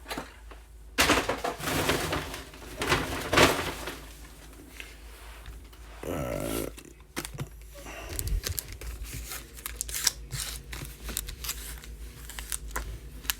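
Foil trading-card packs being crinkled and torn open by hand, with rustling bursts in the first few seconds, then lighter crackling and the small clicks of cards being handled.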